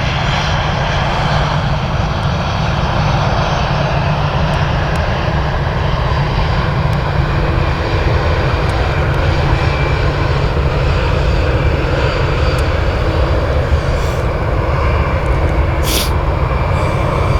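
Jet airliner engines running with a steady, loud rumble.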